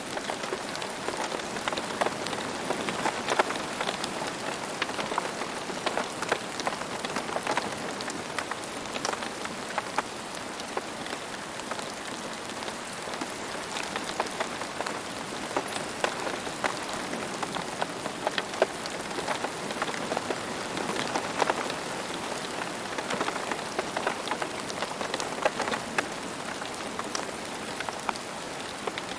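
Steady rain falling, with a constant patter and many distinct drops striking close by.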